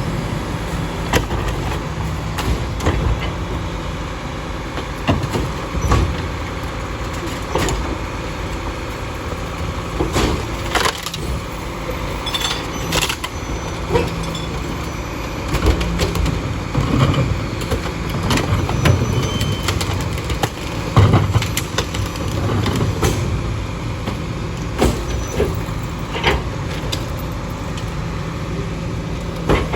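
Split-body garbage truck running steadily, with many sharp knocks and clanks scattered throughout.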